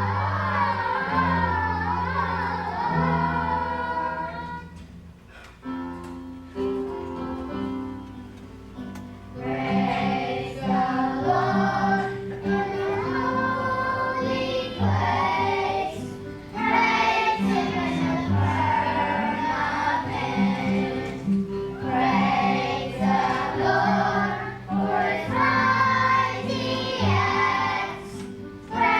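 A children's choir singing with instrumental accompaniment. About five seconds in, the voices drop out for a few seconds, leaving the accompaniment alone, and then come back in.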